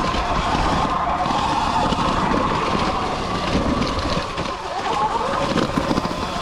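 Sur Ron X electric dirt bike being ridden: the motor's whine wavers in pitch with speed, over wind noise and a steady rattle from the bike jolting over rough trail.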